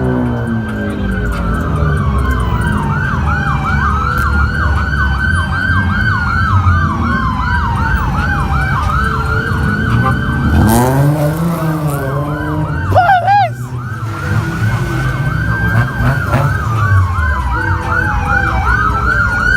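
Police car siren sounding, switching back and forth between a slow rising-and-falling wail and a fast yelp, with car engines running and revving underneath.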